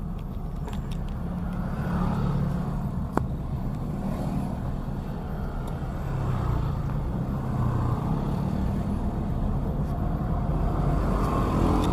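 Road vehicle engine and tyre noise, a steady low rumble that grows gradually louder, with a single sharp click about three seconds in.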